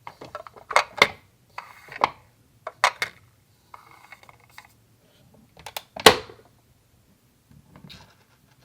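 Small plastic toy kitchen pieces being handled and set down: a run of sharp clicks and clacks with light scraping between, the loudest clack about six seconds in.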